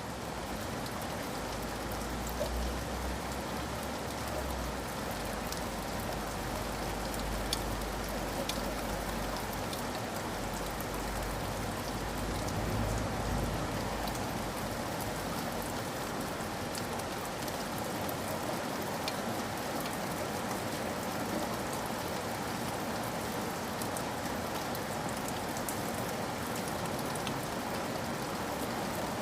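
Steady rain falling, an even hiss dotted with sharp ticks of individual drops. A low rumble sits underneath for roughly the first half and fades out about halfway through.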